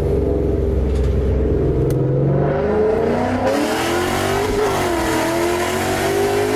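Ford Mustang GT V8 with long-tube headers, X-pipe, Roush axle-back mufflers and resonators, going from a steady low note into a hard full-throttle pull about two seconds in. The exhaust note climbs in pitch, dips briefly and climbs again.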